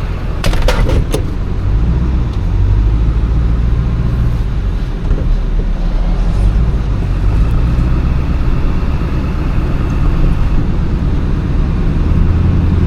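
Motor vehicle driving: a steady low engine hum with road noise, and a few sharp clicks about a second in.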